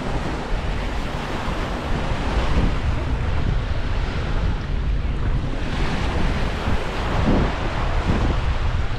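Small waves washing onto a sandy beach, with wind buffeting the microphone in a steady low rumble; the wash swells a little past the middle.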